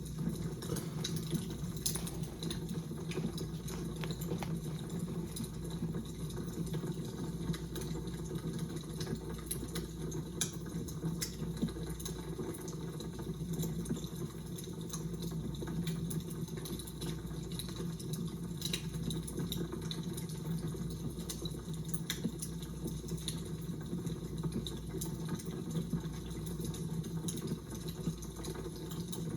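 Fire crackling: irregular small pops and snaps over a steady low hum.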